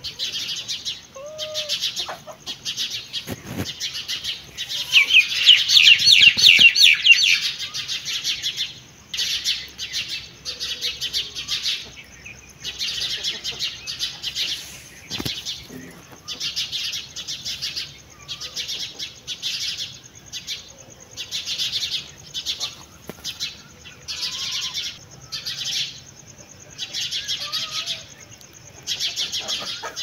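Songbirds chirping in short repeated phrases, one every second or two, with a louder rapid trill about five to seven seconds in.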